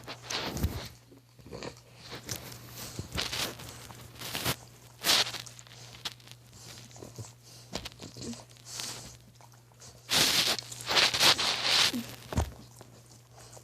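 Dog chewing and biting hard on a toy, irregular wet gnawing noises with a louder run of them about ten seconds in.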